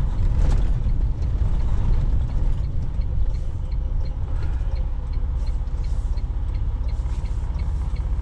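Semi-truck's diesel engine and road noise heard from inside the cab as a steady low rumble, with a light regular ticking about twice a second.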